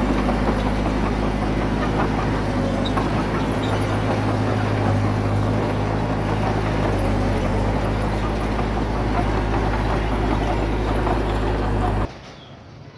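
Heavy diesel engine of an earthmoving machine running steadily under load, with a constant low engine note. It cuts off abruptly near the end, leaving a much quieter outdoor background.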